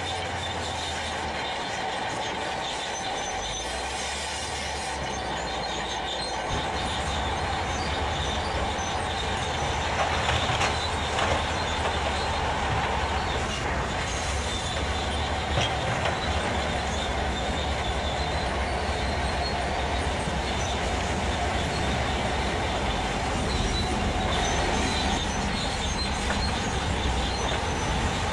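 Heavy truck running steadily with a high squealing whine over it. A low engine rumble grows louder about six seconds in.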